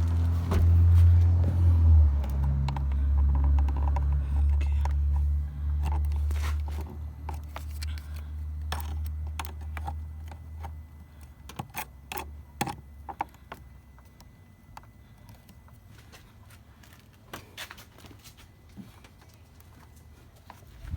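Scattered light metallic clicks and scrapes of a jump-starter clamp being worked onto a car battery terminal. A low rumble fades away over the first several seconds.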